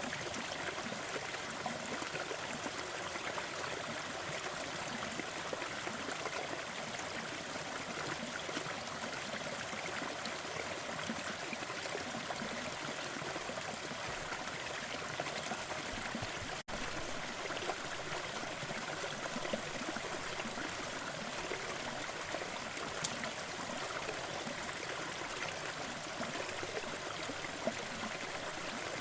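Waterfall: a steady, even rush of falling water with no change in strength, broken once by a split-second gap a little past halfway.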